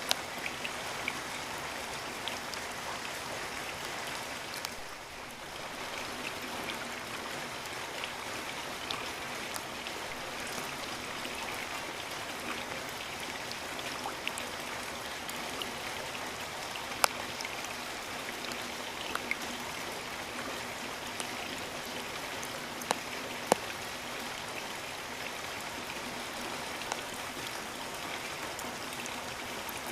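Steady rain falling, with scattered louder drops hitting close by as sharp ticks. It eases slightly for a moment about five seconds in.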